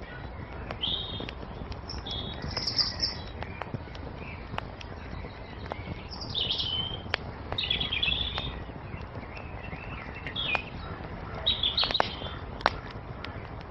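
Wood fire crackling with sharp pops scattered throughout, over a steady low rumble, while songbirds chirp in short repeated phrases, with a cluster of calls near the end.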